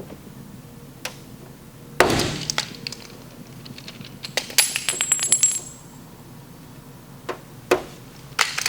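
Hand tools and small parts being handled and set down: a thump about two seconds in, then a quick run of light metallic clinks and rattles with a high ringing, and a few more scattered clicks near the end.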